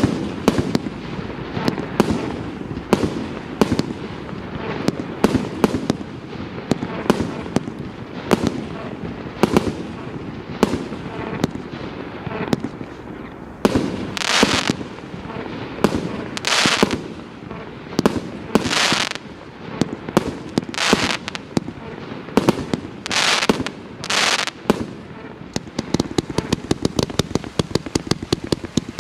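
A multi-shot consumer firework battery (cake) of mixed calibres firing: a continuous stream of launch shots and bangs, with longer, brighter bursts about every two seconds in the middle stretch, turning into very rapid fire near the end.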